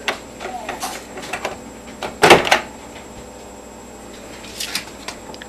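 Microwave oven door being opened: a short loud clatter about two seconds in, with a few lighter clicks later.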